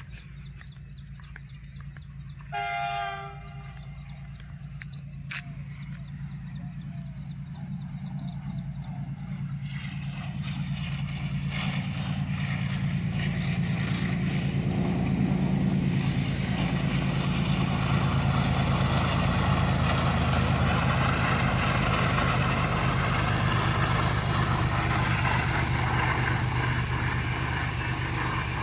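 A train: a short horn blast about two and a half seconds in, then its rumble and low engine hum grow louder over the next dozen seconds and hold steady as it comes close.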